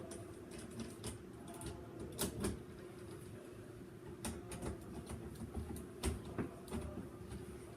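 Scattered clicks and rustles of electrical wires and tape being handled, over a steady low hum.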